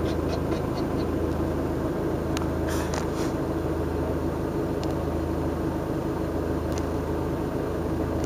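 A van's engine running steadily, heard from inside the vehicle, with a light regular ticking through the first second.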